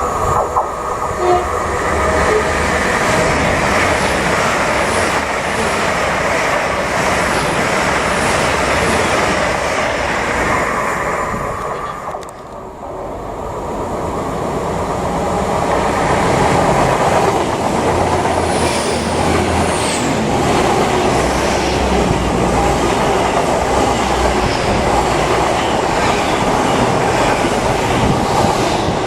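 A diesel train running past close by, with wheels rumbling and clattering on the rails under the engine noise. The noise dips briefly about twelve seconds in and then builds again, with faint high wheel squeals a few seconds later.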